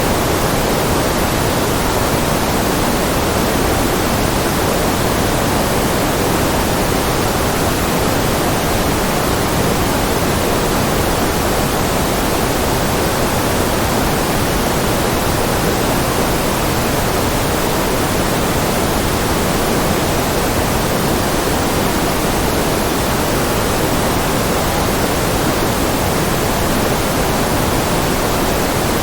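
Steady synthetic noise of the white-noise kind: an even, unchanging hiss with no events in it.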